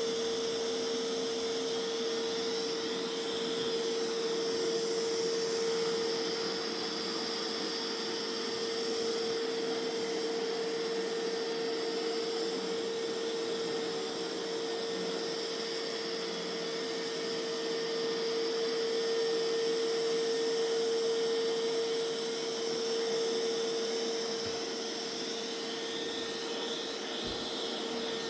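Mova Z60 robot vacuum running on carpet with its suction ramped up for the carpet, mopping stopped: a steady whirring rush with a strong constant hum.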